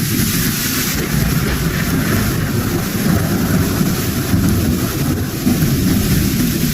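A loud, steady low rumble with a hiss above it.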